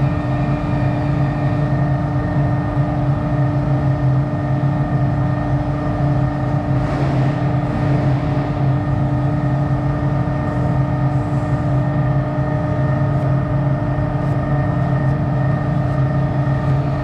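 Steady droning hum of a running motor, with a brief hiss about seven seconds in.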